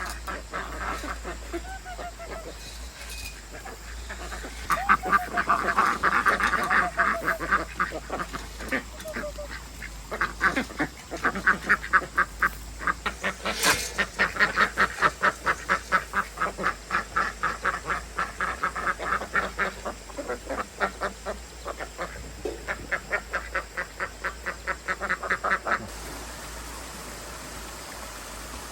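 Ducks quacking in long, fast runs of calls, about three a second, that stop suddenly near the end.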